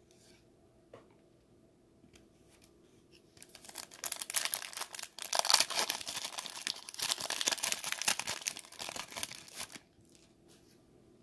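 The wrapper of a trading card pack being torn open and crinkled: a run of crackling, crinkling noise lasting about six seconds that begins a few seconds in and stops abruptly.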